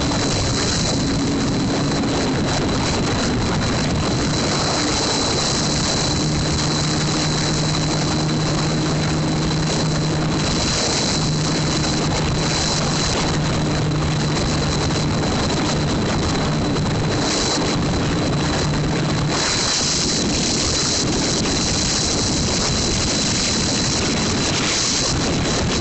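Wind rushing over the microphone, with a single-cylinder 150 cc motorcycle engine running at a steady pitch underneath. The engine note drops away about twenty seconds in, leaving the wind.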